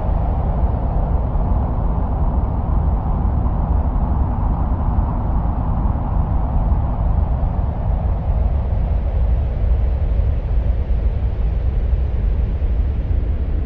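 Steady, low wind-like rumble presented as the sound of Mars, heaviest in the deep bass with a fainter hiss above it and no distinct events.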